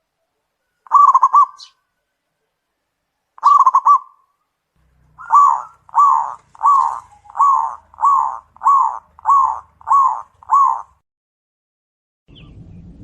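Zebra dove (perkutut) cooing: two short bursts of rapid rolling notes, then a steady run of nine evenly spaced coos, nearly two a second. A faint, steady noise starts just before the end.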